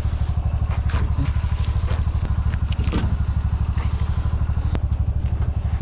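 Engine of a side-by-side utility vehicle running with a steady, even pulse while driving, with a few knocks and clatters from the loaded rack and bed.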